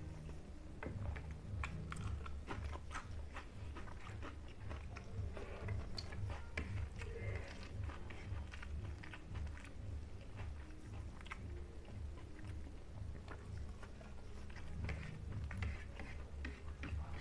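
A person eating rice and fish by hand, chewing and smacking with many small wet clicks throughout.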